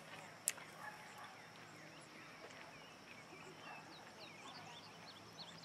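Faint outdoor bird calls: many short, quick chirps, growing busier near the end, with one sharp click about half a second in.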